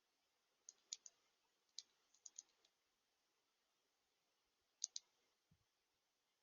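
Faint, sharp clicks and taps, in a quick cluster of about eight over the first three seconds and a close pair near five seconds.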